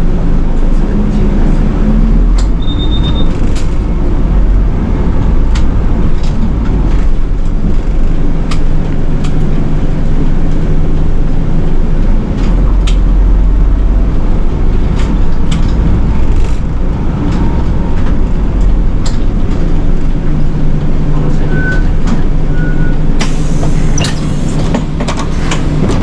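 Nishitetsu city bus running, heard from the front of the cabin: a steady low engine rumble with scattered clicks and rattles. There are a few short beeps, and about three-quarters of the way through a brief hiss of air.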